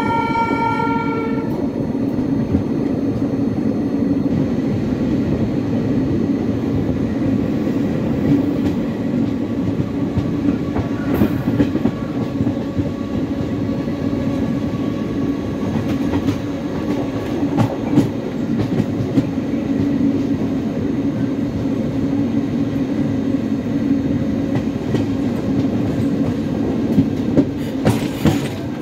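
Moving Indian Railways passenger train heard from an open coach door: a steady rumble of wheels on track with scattered clicks over rail joints. A train horn sounds at the start and stops about a second and a half in.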